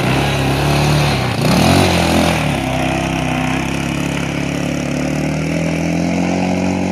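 ATV engine running under way. It drops and then rises in pitch about a second and a half in as the rider changes speed, then holds a steady note.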